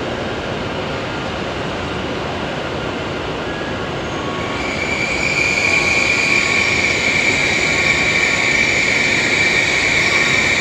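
Hokuriku Shinkansen bullet train running with a steady rushing noise. About halfway through, a high steady whine comes in and the sound gets louder.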